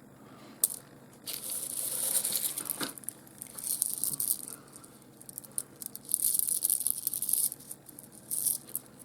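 Small pieces of rough opal clicking and rattling against each other as they are moved by hand, in several short spells of dense, fine clatter.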